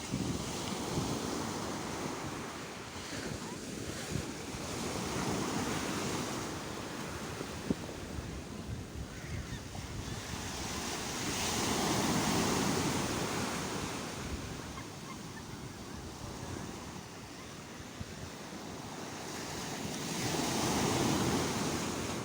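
Sea waves breaking, the surf swelling and falling away in three slow surges about eight to nine seconds apart.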